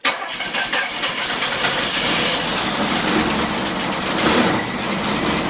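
Chevrolet Camaro V8 running loudly just after catching on a cold start after winter storage, with a deeper rumble building from about two seconds in.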